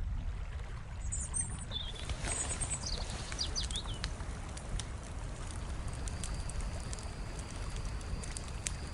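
Outdoor ambience: a few short bird chirps in the first few seconds over a steady low rumble, with scattered faint clicks and a thin, steady high tone from about six seconds in.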